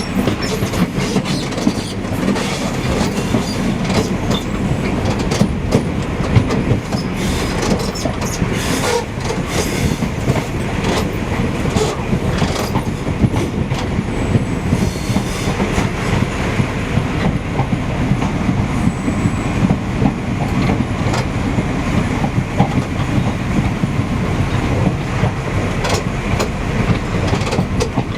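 Moving passenger train heard from on board: a steady rumble of wheels on the track, with frequent clicks and rattles as the wheels run over rail joints.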